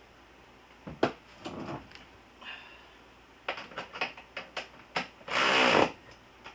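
Scattered metal clicks and knocks from fitting and tightening a car seat's mounting bolts, with a loud rasp lasting about half a second near the end.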